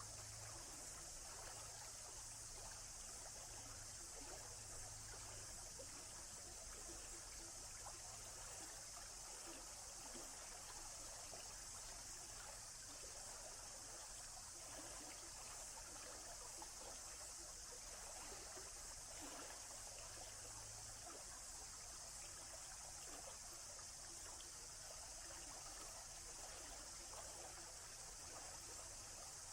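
Faint, steady trickle of a stream.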